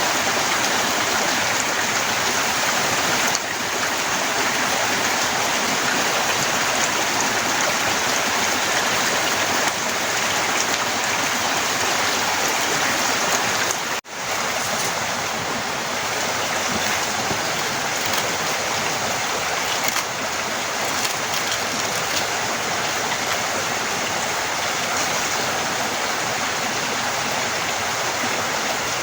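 Heavy rain falling in a steady, dense hiss, with a brief dropout about halfway through.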